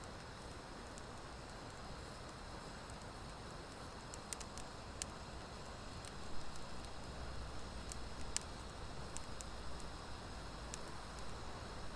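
Wood fire burning, mostly driftwood: a steady soft hiss with a few sharp crackles and pops, most of them in the second half.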